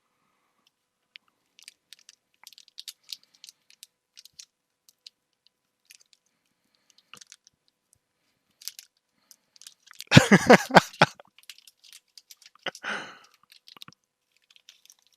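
Crinkling and crackling of foil booster-pack wrappers and trading cards being handled, scattered small crackles and clicks, with a brief louder burst about ten seconds in.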